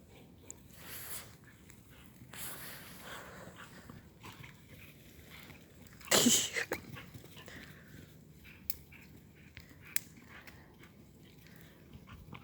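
A boxer dog gives one short, loud noisy sound about six seconds in, amid quieter sounds of the dog moving about and a couple of sharp clicks.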